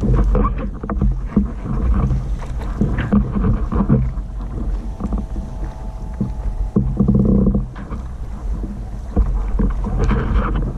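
Heavy, rumbling wind-and-water noise on a sailboat, with frequent knocks and clicks. A faint steady tone comes in near the middle.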